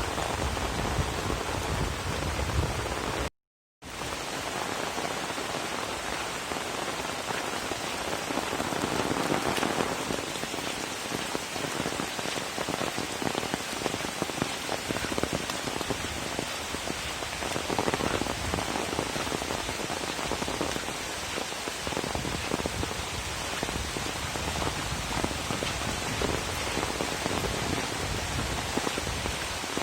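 Steady rain falling and pattering on surfaces, even and continuous, with a sudden total dropout of about half a second a little over three seconds in.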